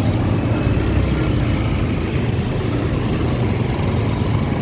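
Motor traffic running steadily: a continuous low engine rumble with road noise.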